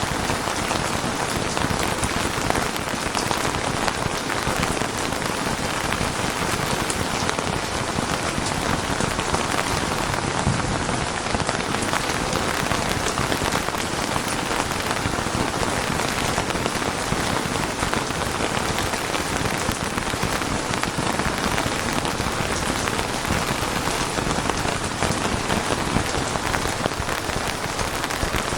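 Steady, heavy rain falling on a surface, a dense even hiss full of fine drop patter.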